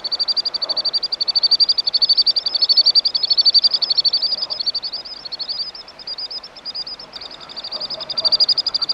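Common sandpiper calling: a long, rapid trill of short high-pitched notes, many per second, fading somewhat in the middle and growing stronger again near the end.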